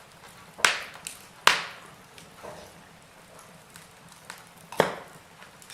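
Logs burning in a fireplace, crackling over a faint steady hiss. Three sharp pops stand out, the loudest about a second and a half in and another near the end, with a few softer snaps between them.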